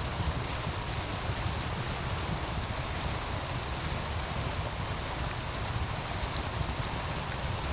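Meltwater stream running steadily in a continuous rushing hiss, with a wood fire crackling now and then in a few sharp little clicks, and a low rumble underneath.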